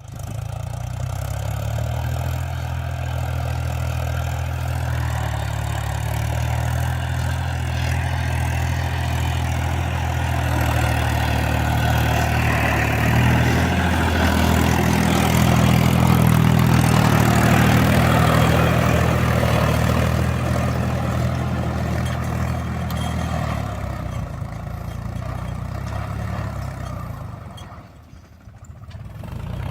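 Tractor engine running steadily with a low, even drone. It gets louder around the middle and dips briefly near the end.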